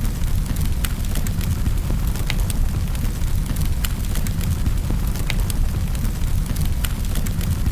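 Wood fire burning in a fireplace: a steady low rumble of the flames with irregular sharp crackles and pops, several a second at times.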